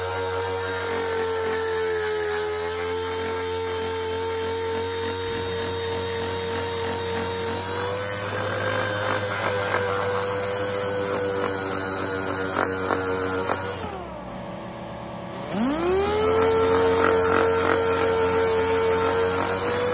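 Pneumatic DA (dual-action) air sander with 80-grit paper running against a steel axe head, a steady whine. About 14 s in it winds down and stops for a second and a half, then spins back up with a rising whine.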